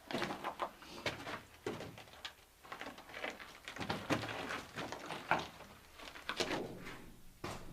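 Irregular knocks, scrapes and rustling of objects being handled, several a second, with no steady sound beneath.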